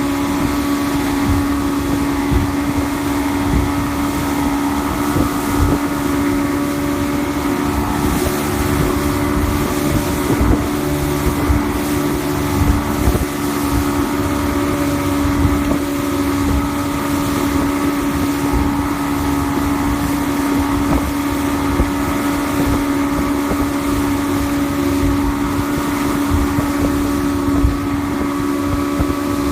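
Evinrude E-TEC 115 hp V4 two-stroke outboard running at a steady, unchanging speed, with wind buffeting the microphone.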